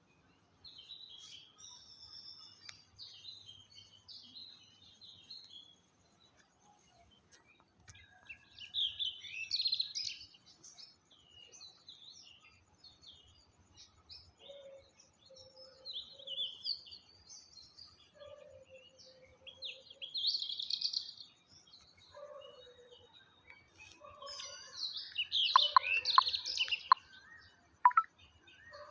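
Birds chirping and calling in a string of separate bursts of quick high chirps. From about halfway in, lower short notes come in, and the loudest burst of calls falls near the end.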